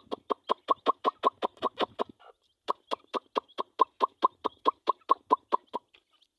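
A man's rapid, evenly repeated chicken-calling sound, about six short clucking syllables a second, made to summon his chickens to feed. It breaks off briefly about two seconds in, resumes, and stops shortly before the end.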